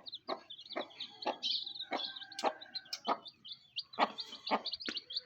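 Baby chicks peeping in many quick, high chirps, mixed with short sharp sounds about twice a second.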